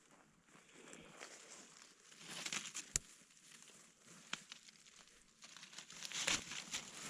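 Irregular rustling and crinkling, loudest twice, with a single sharp click about three seconds in.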